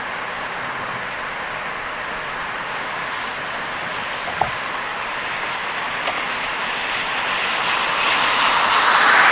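Car driving through heavy rain: a steady hiss of rain and tyres on a wet road, with a sharp tap about four and a half seconds in and the noise swelling louder near the end.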